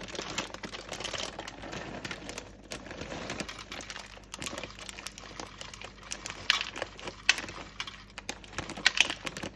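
Dried mealworms being poured and pushed into a peanut bird feeder: continuous dry rustling and light pattering, with a few sharper clicks in the second half.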